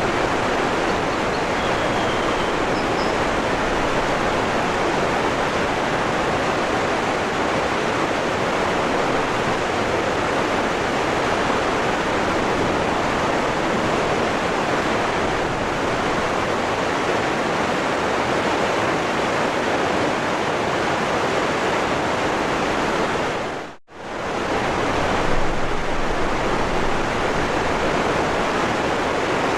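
Waterfall rushing, a steady even roar of falling water. About three-quarters of the way through it dips away to almost nothing for under a second and then comes straight back.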